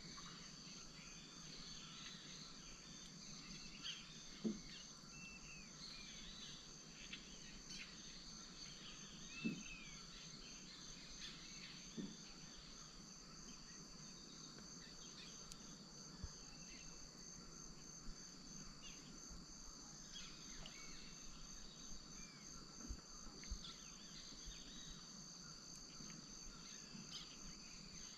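Faint rainforest wetland insect chorus: two steady, fast-pulsing high trills, with scattered short bird chirps over them and a few soft low knocks.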